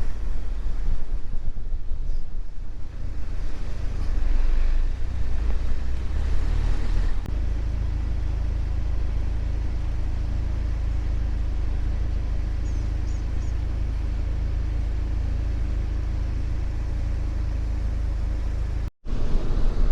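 Car driving, with a loud, low road and tyre rumble. About seven seconds in, the rumble changes from rough and uneven to smooth and steady. It cuts out for a moment near the end.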